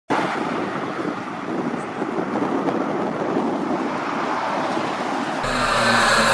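Steady rushing vehicle noise; about five seconds in it gives way to a steady engine hum.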